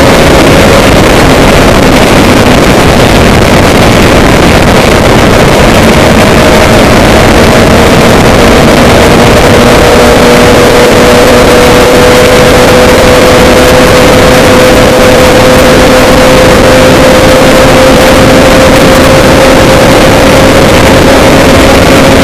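Loud, steady running noise of a moving vehicle, with a constant low hum and a higher hum that drift slightly in pitch.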